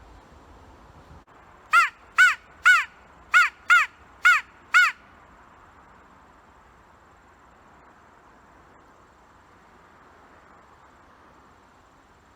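Handmade crow call blown in a quick run of seven caws over about three seconds, each note rising and falling in pitch. The tone is clean, without the little bit of rasp a real crow's caw has.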